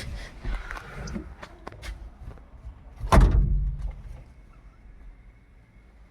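A vehicle door slamming shut about three seconds in, after a few light clicks and knocks.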